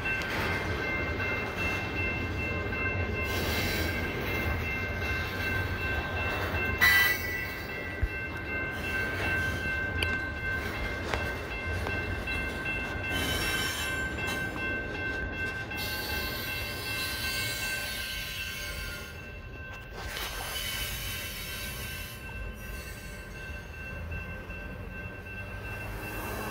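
Double-stack container train rolling past at close range: a steady low rumble of wheels on rail with a high, steady wheel squeal over it. A sharp clank comes about seven seconds in, and the squeal fades out about two-thirds of the way through.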